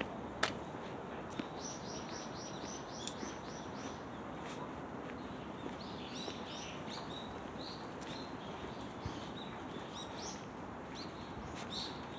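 Small birds chirping in quick runs of short high notes, about four a second, repeated several times over steady outdoor background noise. A single sharp click sounds about half a second in.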